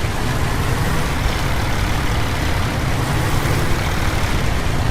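School bus driving steadily, its engine drone mixed with an even hiss of rain and tyres on a wet road.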